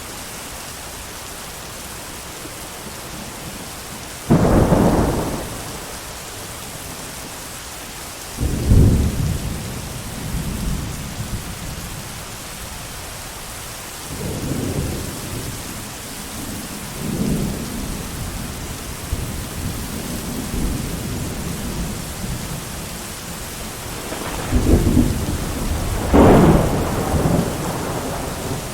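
Steady heavy rain with repeated thunder. A sudden loud clap comes about four seconds in, followed by several lower rumbles, and two more strong peals come near the end.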